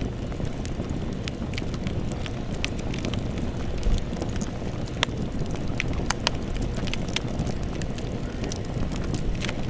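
Campfire burning: a steady low roar of flames with irregular sharp crackles and pops from the wood, a louder pop about four seconds in and another about five seconds in.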